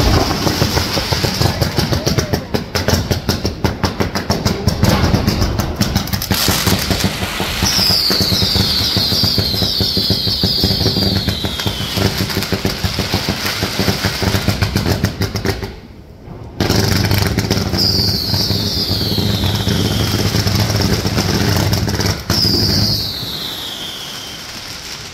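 Consumer fireworks going off on the street: a dense, rapid crackle of pops with falling whistles three times over it. It breaks off briefly about two-thirds through, starts again, and fades near the end.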